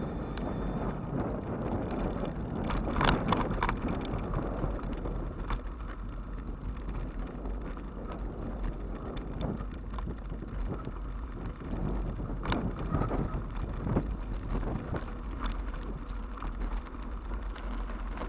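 Riding noise from an e-bike rolling along: a steady rumble of tyres and wind, broken by scattered clicks and knocks as the bike jolts over the surface. The knocks come thickest about three seconds in and again around two-thirds of the way through.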